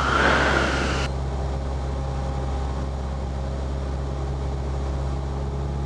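Cessna 172P's four-cylinder Lycoming engine droning steadily, heard inside the cabin. In the first second a burst of radio static hisses and cuts off with a click.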